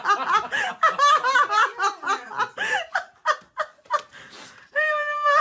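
High-pitched laughter: a rapid run of short repeated bursts, with one held higher note near the end.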